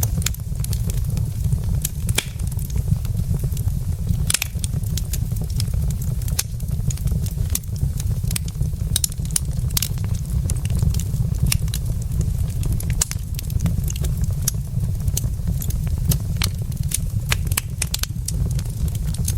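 Burning wood logs in a fireplace crackling, with irregular sharp pops and snaps over a steady low rumble.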